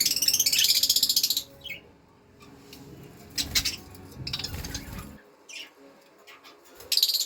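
Baby budgerigars chirping: a loud burst of rapid, high-pitched chirps for the first second and a half, shorter bursts a few seconds in, and another loud burst near the end. A low rustling sound runs in the middle.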